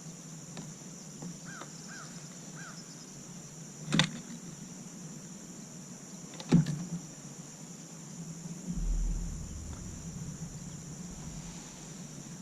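Steady high-pitched insect chorus, with three short chirps in the first few seconds and two sharp knocks, about four and six and a half seconds in. There is also a brief low rumble a little after the middle.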